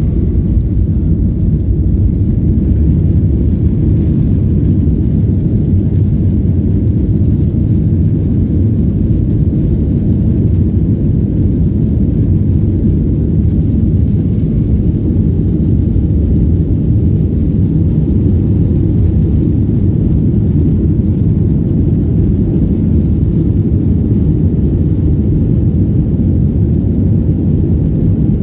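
Boeing 737-800's CFM56-7B jet engines at takeoff thrust: a loud, steady deep rumble that holds the same level throughout.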